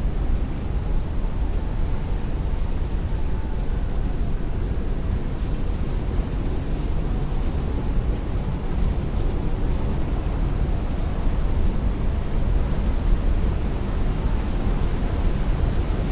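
Heavy rain beating on a window pane with strong wind rushing outside: a steady, dense wash of noise, heaviest in the low end, with no distinct drops or gusts standing out.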